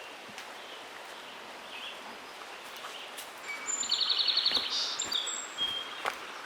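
A songbird singing one short song with whistled notes and a fast trill, about three and a half seconds in, over soft footsteps on a forest trail.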